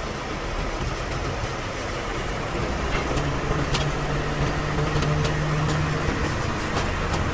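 An engine running steadily, its hum swelling for a few seconds in the middle, with a few light metallic clicks over it.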